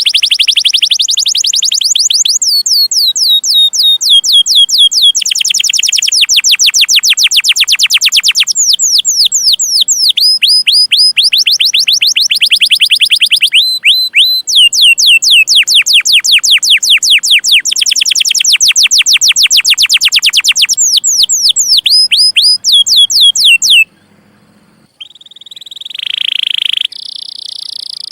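Domestic canary singing long, loud trills of rapid, repeated downward-sweeping chirps, in tours of a few seconds each separated by short pauses. Near the end it breaks off briefly, then starts a buzzier rolling tour.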